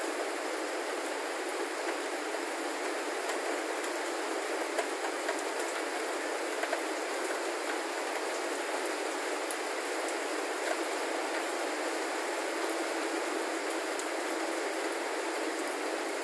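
Heavy rain pouring steadily, with faint sharper drop ticks here and there.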